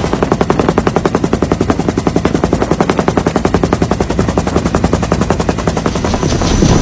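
Loud, rapid, even pulsing of a rotor or engine, about a dozen beats a second, like a helicopter's rotor beat.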